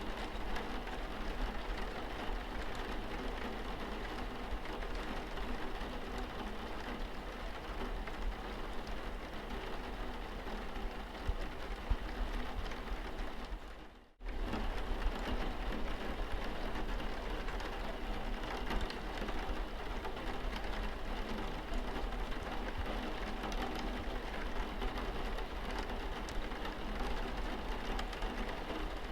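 Rain falling steadily on a car's windscreen, an even patter. About halfway through it fades away to almost nothing for a moment, then comes straight back.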